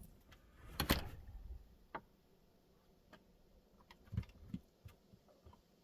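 A few scattered short clicks and light knocks, the loudest about a second in.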